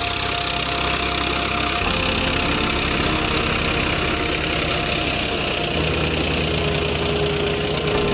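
Farmtrac 60 PowerMaxx tractor's diesel engine running steadily. Its note shifts about two seconds in and again near six seconds.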